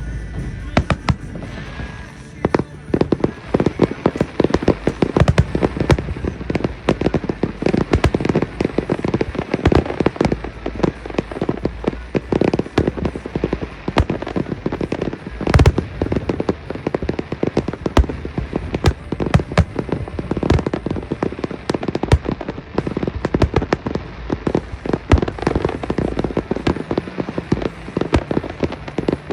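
Aerial fireworks display in a rapid, dense barrage, with many sharp bangs a second overlapping one another. The single loudest bang comes a little past the middle.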